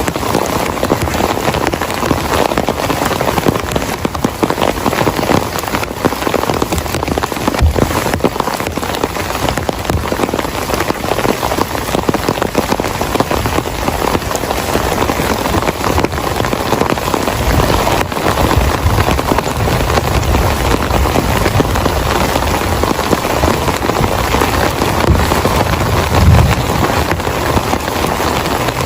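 Heavy rain falling steadily, a dense spray of drop strikes. A deeper low rumble swells in and out through the second half, loudest about 26 seconds in.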